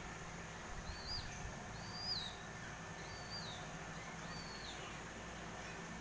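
A bird calling: four short, arched whistles about a second apart, over a steady low hum.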